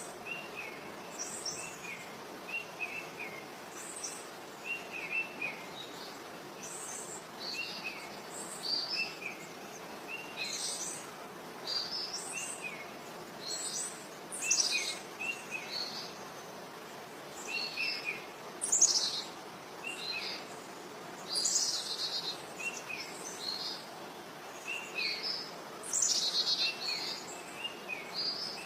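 Several birds chirping and singing: short, quick chirps repeat every second or two, mixed with louder, higher falling notes, over a steady background hiss.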